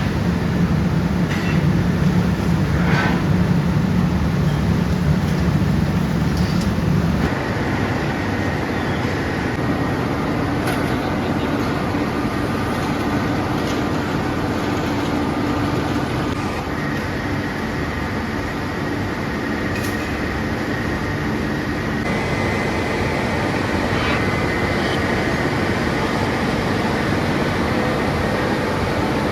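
Steady din of factory machinery in a chain-making plant, with a few short metallic clicks. A heavy low hum drops out about seven seconds in, leaving a thinner machine noise with faint steady whines.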